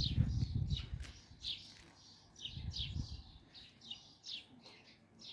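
Small birds chirping over and over, short falling chirps a few times a second. Low rumbling thumps sound in the first second and again around three seconds in.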